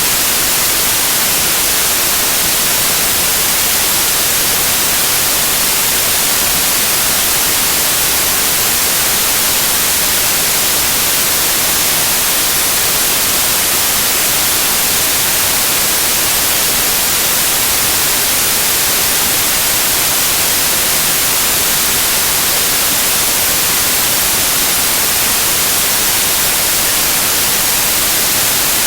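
Loud, steady white noise: an even, unchanging hiss with no breaks.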